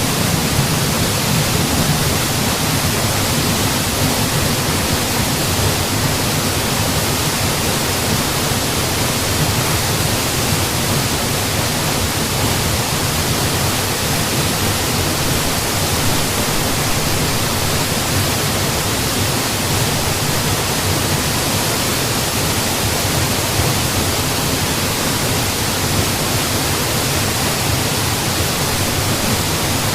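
Steady rush of a mountain waterfall, an even wall of falling water with no breaks or changes.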